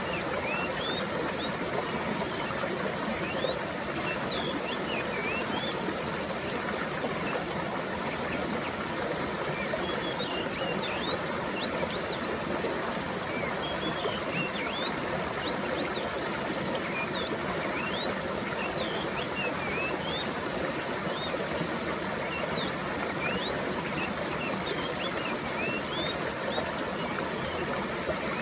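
Steadily flowing stream water, with many birds chirping over it in short, quick upward-sweeping chirps.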